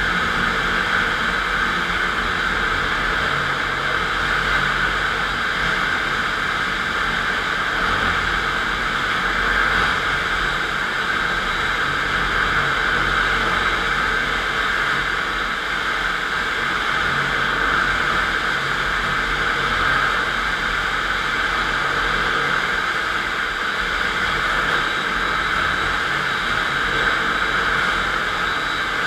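FastPrep concrete floor grinder running steadily, grinding a concrete floor with 16-grit diamond grinding plates: a loud, even grinding noise with no breaks.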